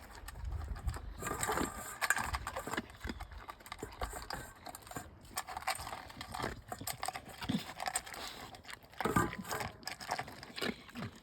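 A dog making small noises as it moves about: irregular clicks and rustles.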